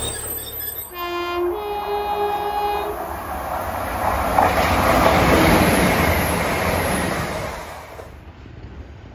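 Transport for Wales Class 175 diesel multiple unit sounding its two-note horn about a second in, lower note then higher, before running in with loud engine and wheel noise that builds to a peak midway and drops away sharply near the end.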